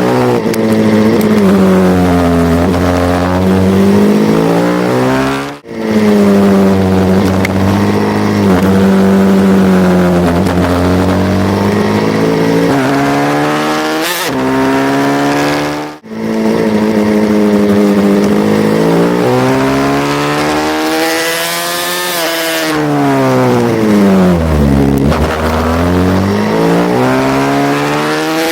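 Racing pit bike engine being ridden hard, its pitch repeatedly rising under acceleration and dropping off as it slows for corners. The sound cuts out briefly twice.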